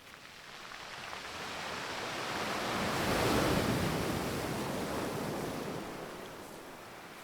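Sea waves washing in, one surge of water noise that swells to its loudest about halfway through and then fades away.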